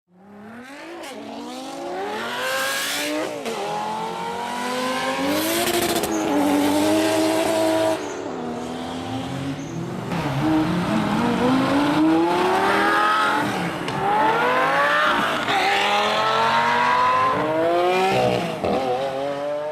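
Ferrari F40's twin-turbo V8 accelerating hard, its pitch climbing through each gear and dropping back at each gear change, several times over.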